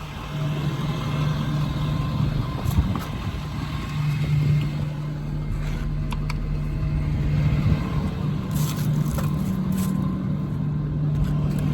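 Ford F550's 6.7 Power Stroke diesel running with a steady low hum, the pitch stepping up slightly about eight seconds in, with a few light clicks over it.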